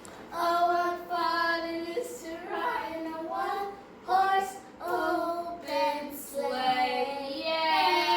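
A single high voice singing a song in phrases of long held notes, with short breaks between phrases.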